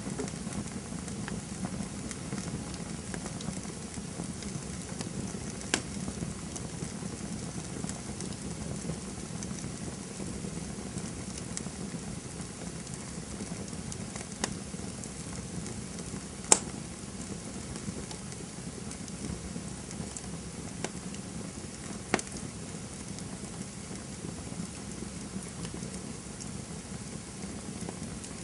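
Wood campfire burning steadily with a low rush of flames and constant soft crackling, broken by a few sharp pops, the loudest about halfway through.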